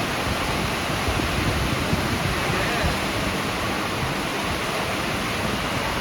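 Heavy rain falling, a steady even hiss with no break.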